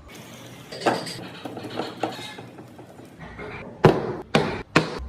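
Sharp knocks from handwork in a woodworking shop: a few lighter taps, then three loud knocks about half a second apart near the end.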